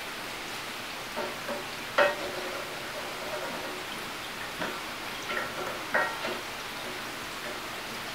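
Ground chicken and onion sizzling in a hot stainless wok, with a spatula knocking and scraping against the pan a few times, loudest about two seconds in and again in a short cluster near the sixth second.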